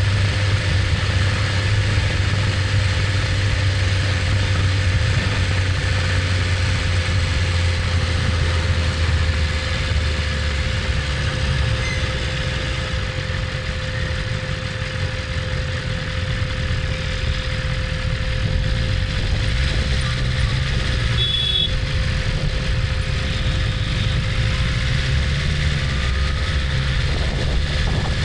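BMW S1000RR's inline-four engine running steadily, its note shifting about ten seconds in.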